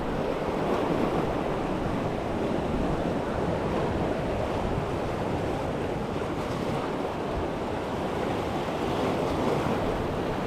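Ocean surf washing steadily against the shoreline, with some wind buffeting the microphone.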